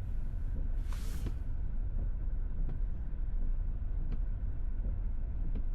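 Steady low road and tyre rumble inside the cabin of a Tesla Model S driving on a snowy road, with no engine note. A brief hiss comes about a second in.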